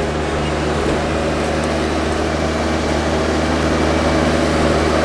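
A heavy engine running at a steady speed, a low even drone with no change in pitch.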